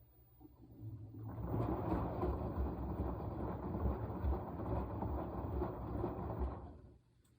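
Washing machine in its wash cycle: the drum turns and tumbles the load for about five and a half seconds, building up about a second in and stopping shortly before the end, between quiet pauses.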